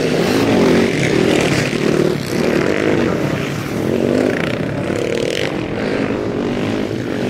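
Sidecar motocross outfits' engines revving hard, their pitch rising and falling again and again as they accelerate and shift around the dirt track.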